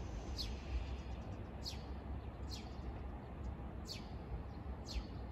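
A bird repeating a short, high, falling chirp about once a second, five times, over a steady low rumble.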